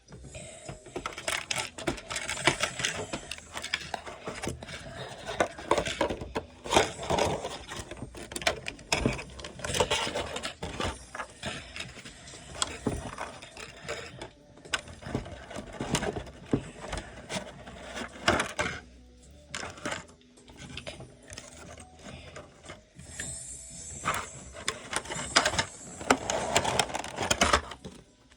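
Hands handling a plastic action figure and its packaging: irregular clicks, taps and scrapes of plastic, quieter for a few seconds past the middle.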